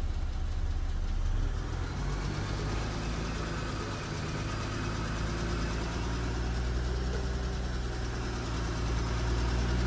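Porsche Cayenne S 2.9-litre twin-turbo V6 (EA839) idling steadily with a fast, regular ticking, which the mechanic believes comes from failing rocker arms.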